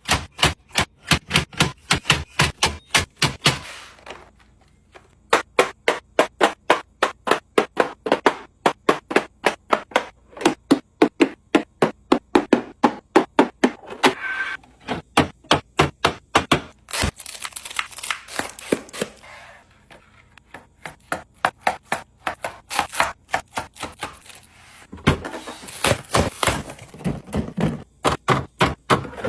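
Quick series of clacks and knocks as groceries and containers are set down and stacked into a fridge, several per second with a few short pauses.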